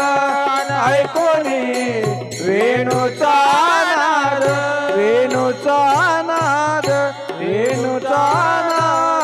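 Male voices singing a Marathi gavlan, a devotional folk song, over a steady held drone and a hand drum keeping an even beat. The drum stops near the end while the drone is held on.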